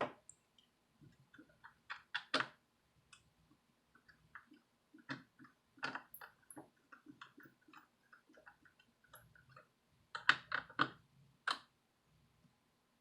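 Small screwdriver working on the screws of a mini wireless speaker's plastic case: scattered light clicks and ticks of metal on the screw heads and the plastic, coming in a few short clusters.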